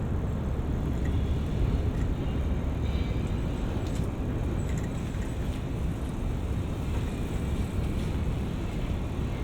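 Steady road traffic noise of cars going by, with a deep, even rumble.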